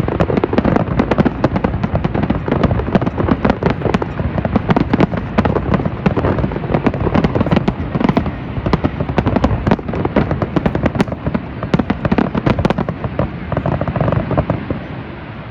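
Fireworks display going off in a dense, rapid barrage of bangs and crackles, easing off near the end.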